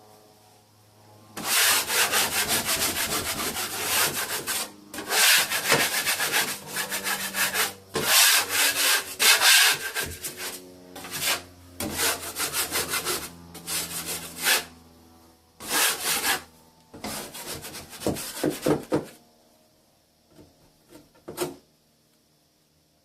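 Hand sanding of a plaster join on a bathroom ceiling: rapid back-and-forth rubbing strokes in several runs with short pauses, stopping about 19 seconds in, with a few faint strokes after.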